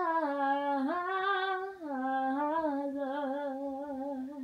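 A woman's solo voice singing a worship song unaccompanied, drawing out long held notes with vibrato and stepping between a few pitches.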